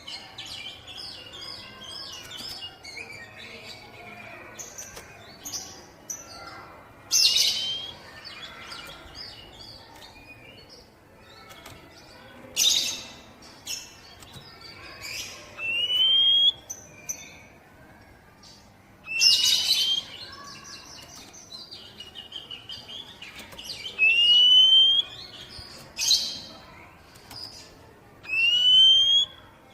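Oriental magpie-robin (kacer) song: continuous high chattering, broken by about four loud rasping notes and several short whistles that rise in pitch.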